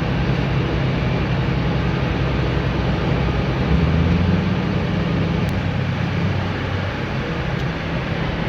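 A heavy engine running steadily with a low rumble, from log-handling machinery or a boat at a log-loading dock.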